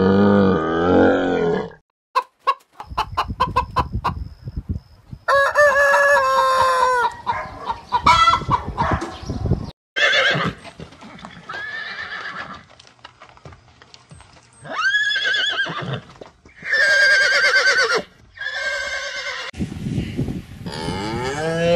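Calls of several different animals cut one after another, each lasting a second or two with short breaks between. There is a low call at the start, a quick run of clicks about two seconds in, several higher pitched calls in the middle, and a low rising call near the end.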